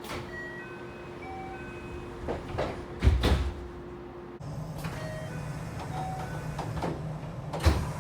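Two JR local train door closings in succession. In each, a door chime sounds a few short notes, the door engine hisses, and the doors shut with a loud thud, about three seconds in and again near the end.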